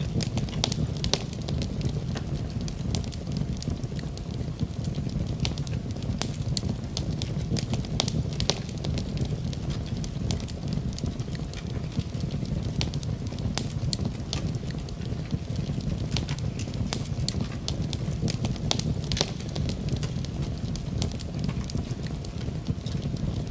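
Wood fire in a fireplace crackling, with many sharp pops and snaps at irregular moments, several a second. Under it runs a steady low rush from the fire and the rain.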